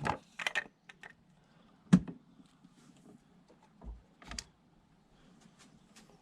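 Sharp clicks and knocks of plastic engine-bay parts and covers being handled, a handful of separate strikes with the loudest about two seconds in.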